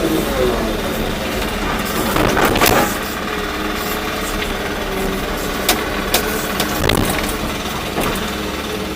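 Volvo EC240B excavator's diesel engine running steadily, with a few sharp knocks and clanks of the machine at work, the loudest clatter about two and a half seconds in.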